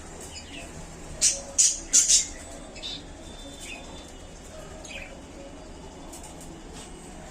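Budgerigars chirping, with a quick run of four loud, sharp chirps about a second in and softer scattered chirps around them.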